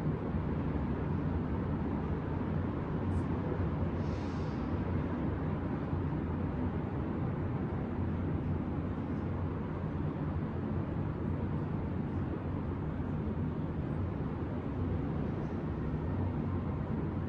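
Steady low rumble of distant city traffic and urban hum, with a brief hiss about four seconds in.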